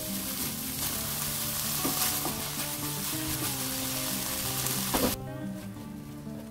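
Garlic scapes and dried shrimp in gochujang sauce sizzling in a hot wok while a silicone spatula stirs and scrapes through them. The sizzle stops abruptly about five seconds in, right after a sharp scrape, leaving only background music.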